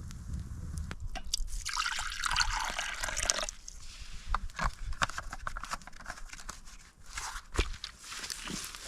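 Liquid pouring with a rushing splash for about two seconds, then small clicks and knocks of handling.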